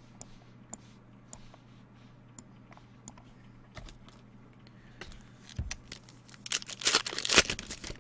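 Light clicks of cards being handled, then about three seconds in from the end the loud crinkling and tearing of a trading-card pack wrapper being ripped open.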